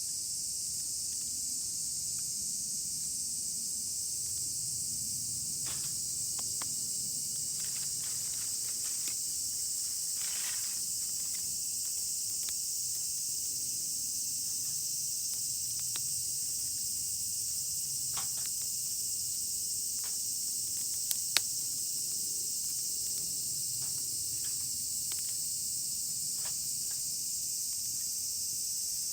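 A steady, high-pitched chorus of insects chirring in a forest. Faint scattered ticks sound throughout, with one sharp click a little past 21 seconds in.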